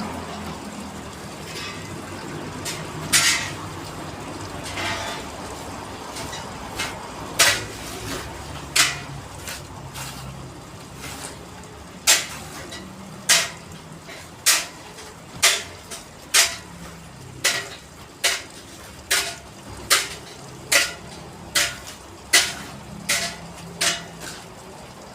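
Hammer blows at work, sharp strikes with a ringing, metallic ring: a few irregular ones at first, then a steady run of about one a second from about halfway in.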